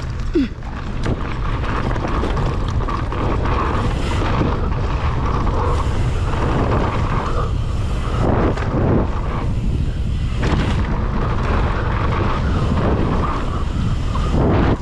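Heavy wind rushing over the microphone while a mountain bike runs fast down a dirt jump line, with tyres rumbling on the dirt and a few heavier thumps partway through.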